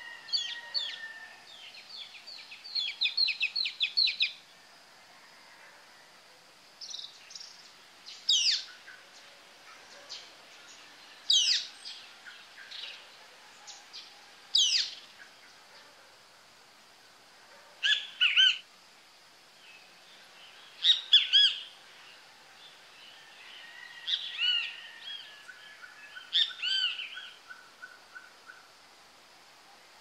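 Tropical forest birds calling and singing: a quick run of repeated high notes early on, then sharp downward-swooping whistles every few seconds and clusters of chattering calls, over a faint steady high hiss.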